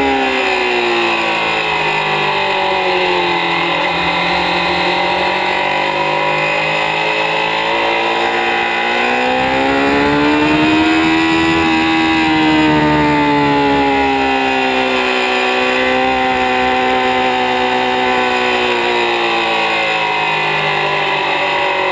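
2006 Kawasaki ZX-6R (636) inline-four engine running under way, its note falling over the first few seconds, rising again about ten seconds in, then easing back and holding steady, with steady wind rush over the microphone.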